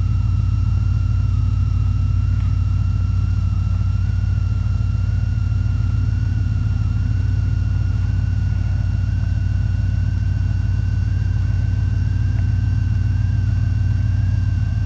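Vehicle on the move: a steady low road rumble with a thin whine that slowly rises in pitch.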